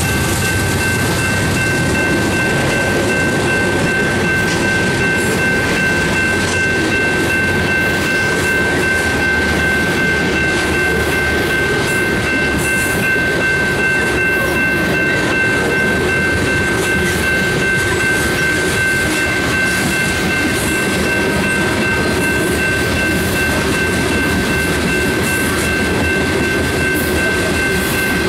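Freight cars of a mixed freight train rolling past at close range: a steady rumble and clatter of steel wheels on the rails. A steady high-pitched whine runs throughout.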